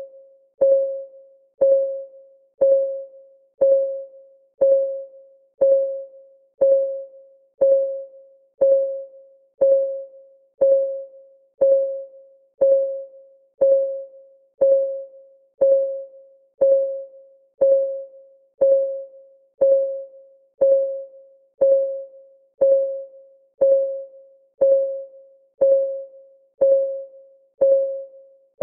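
Countdown timer's clock-ticking sound: one short, pitched tick a second, each a single mid-pitched tone that dies away quickly, in a steady, even rhythm.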